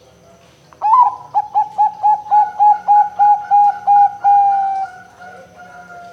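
Zebra dove (perkutut) cooing: a loud run of about fifteen quick staccato coos, some five a second, ending in one longer drawn-out note, then trailing off into softer notes.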